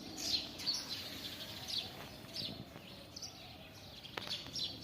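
A chick peeping: several short, high chirps, each falling in pitch, repeated every half second to a second, with a faint click near the end.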